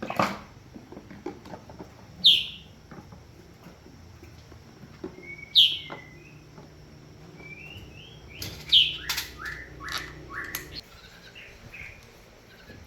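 Bird calling: three loud, short, high calls that sweep downward, about three seconds apart, with softer chirps and a few clicks between them. A faint low hum underneath stops about three-quarters of the way through.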